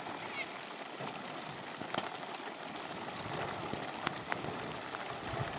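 Steady rain falling, with a few sharper drop taps scattered through it.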